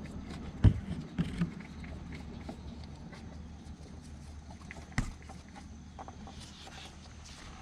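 Engine oil pouring from the drain hole of a 2019 Ford Ranger's oil pan into a drain pan, a steady splashing stream. A few sharp knocks come in the first second and one more about five seconds in.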